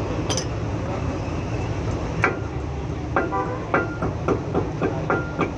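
Light metal-on-metal taps on the wheel hub parts, about two a second from around two seconds in, each with a short ring, over a steady low hum.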